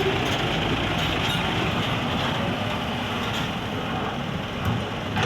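Dump truck engine running steadily, with a few faint knocks over it.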